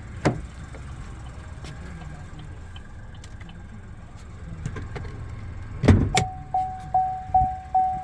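A 2024 Chevrolet Trax's door opening with a heavy knock and a click, as the hood release is reached. Then the car's warning chime rings, about five dings in two seconds.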